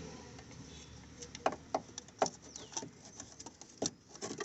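Scattered light metal clicks and knocks as a homemade steel clamp-and-plate oil filter tool is handled and fitted around a car's oil filter.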